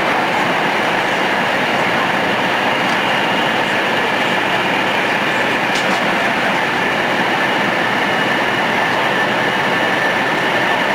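Shinkansen bullet train running at speed: a steady rush of running noise with a faint high whine, and a small click about six seconds in.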